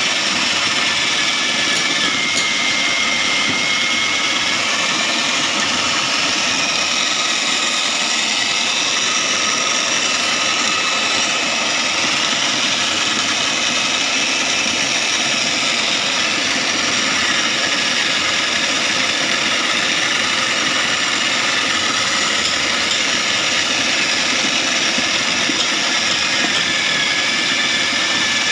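Foam-shredding machine for pillow stuffing running steadily, a continuous motor hum with a high whine that wavers a little in pitch.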